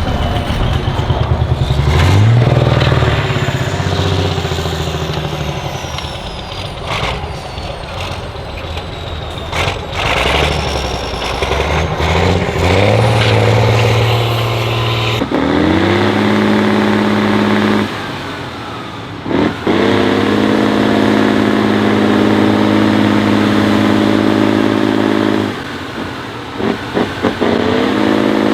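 Off-road trial truck's engine revving hard, its pitch climbing and falling, then held at steady high revs, dropping off briefly twice.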